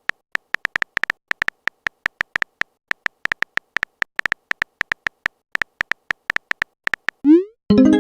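Chat-app typing sound effect: a rapid, irregular run of short high beeps, like keys being tapped as a message is typed. Near the end a quick rising swoosh and then a louder chime, typical of a message being sent and arriving.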